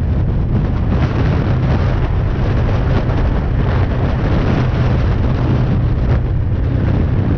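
BMW G310R's single-cylinder engine running steadily while riding, with wind noise on the microphone.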